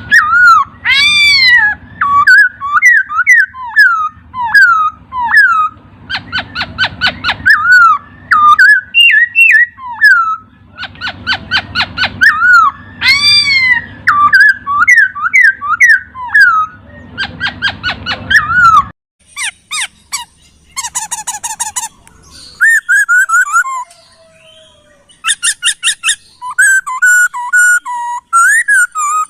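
Poksay (laughingthrush) singing loud whistled phrases: each is a fast rattling trill followed by a run of slurred, swooping whistles, repeated about every six seconds. A low hum underneath stops about two-thirds of the way in, and higher, thinner trills and whistles follow.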